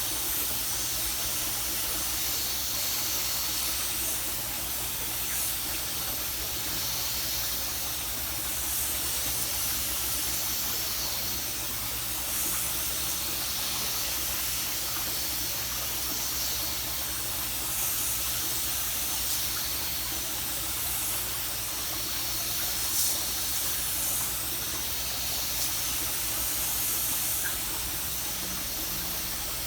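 Steady hissing noise with a low hum underneath, unchanging throughout.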